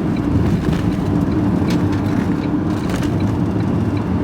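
Steady engine drone and road noise of a vehicle being driven, heard from inside the cab.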